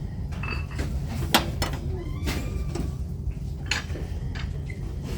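Scattered clicks and clinks of ceramic and decor items being handled on a store shelf, about half a dozen, over a steady low background hum.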